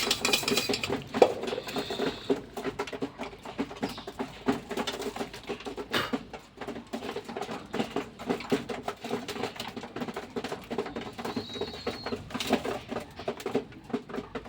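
A flock of pigeons pecking at scattered feed: a dense patter of small beak clicks, over low cooing from the birds.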